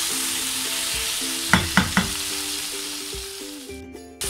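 Minced meat and potato wedges sizzling as they fry in a pot while being stirred with a wooden spoon, with three quick knocks of the spoon against the pot about one and a half seconds in. The sizzling fades near the end.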